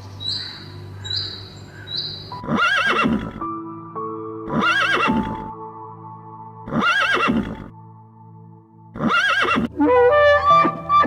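A short high chirp repeated several times, then four loud, wavering animal calls of about a second each, roughly two seconds apart, over sustained background music.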